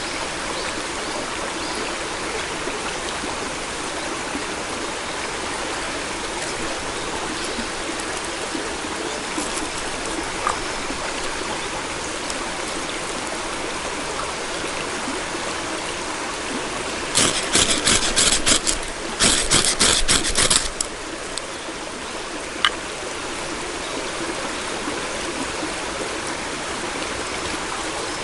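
Steady rush of running water from a stream. About seventeen seconds in come two bursts of rapid, crackly clicking, each lasting a second or two, then one more single click.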